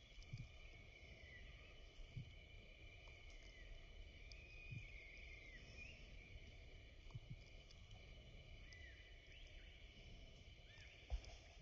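Faint outdoor ambience: steady high-pitched insect chirring in several layered pitches, with a few short gliding notes and occasional soft low bumps.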